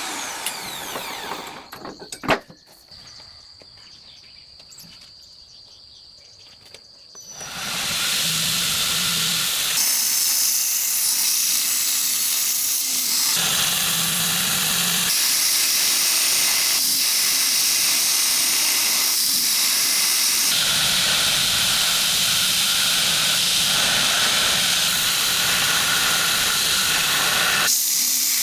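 Power grinder grinding a forged knife blade: a loud, steady hiss that starts about seven seconds in and shifts in strength as the blade is worked. Before it come a sharp click and a quiet stretch with a faint, high, steady whine.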